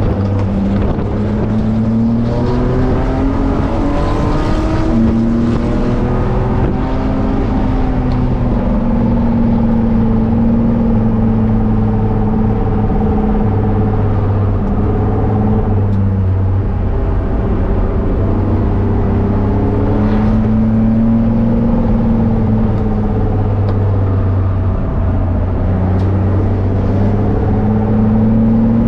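BMW E30 engine at full throttle, heard from inside the cabin, its pitch climbing under acceleration and falling back several times as the car brakes and shifts, over steady road and wind noise.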